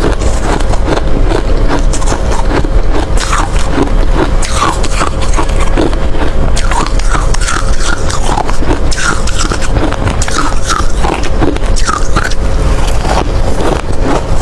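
Ice being bitten and chewed close to the microphone: dense, irregular crunches one after another, several a second.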